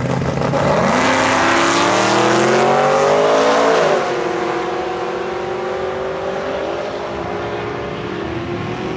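A drag car's engine accelerating hard, its pitch climbing for about three seconds, then dropping sharply about four seconds in and running on steadier and a little quieter.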